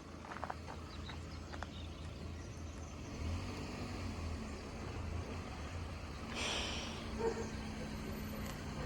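Road vehicle engines running with a steady low rumble, and a short hiss about six and a half seconds in.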